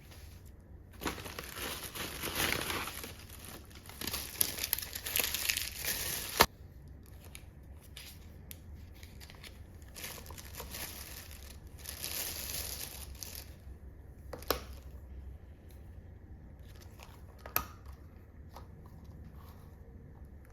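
Wrapping being crinkled and torn by hand in three bursts of rustling. A sharp click ends the second burst, and two short clicks follow later.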